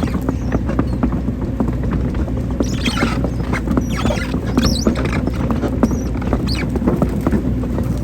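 Hydraulic excavator's diesel engine running steadily under load, with frequent knocks and scraping as the bucket digs soil for a shallow drainage ditch, and a few short high squeaks.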